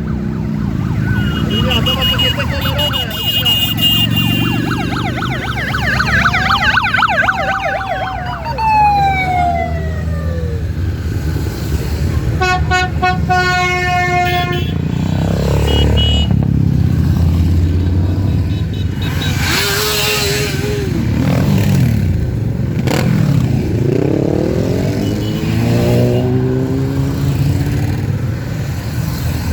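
Many motorcycle engines passing and revving, their pitches rising and falling, over a steady rumble of traffic. About twelve seconds in, a long steady tone sounds for roughly two seconds.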